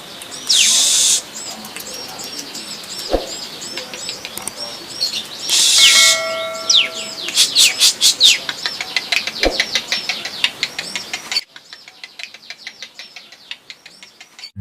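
Small birds chirping in quick, repeated high calls, with two loud harsh bursts, one near the start and one about six seconds in. The chirping drops suddenly fainter about eleven seconds in.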